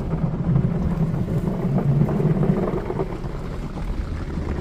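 Touchless automatic car wash applying lava foam over the car, heard from inside the cabin: a steady rumbling wash of spray on the body, louder in the first half and easing off after about three seconds.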